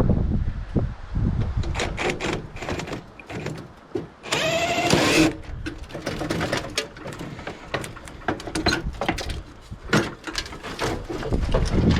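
Metal clanks, knocks and rattles of a microwave oven being pulled apart by hand, with a brief high whine about four seconds in.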